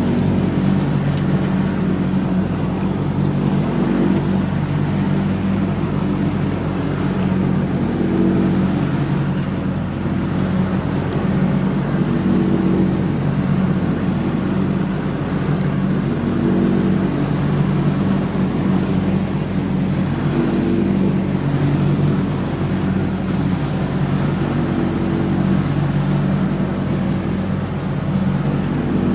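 John Deere X304 lawn tractor engine running steadily while mowing, its note swelling and easing every few seconds.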